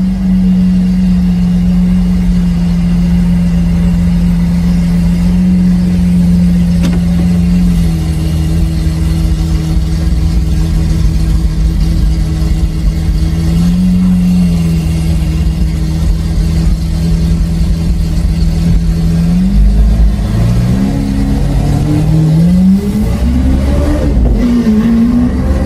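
Lamborghini Aventador SV V12 with a Capristo exhaust, holding a steady drone at constant revs. From about twenty seconds in its pitch climbs and drops several times as it accelerates and revs.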